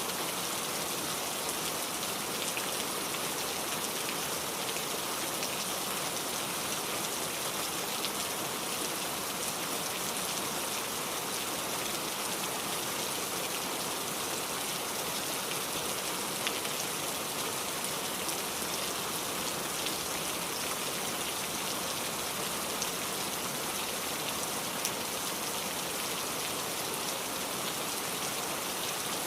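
Steady rain falling on a surface, an even hiss with a few faint drop ticks.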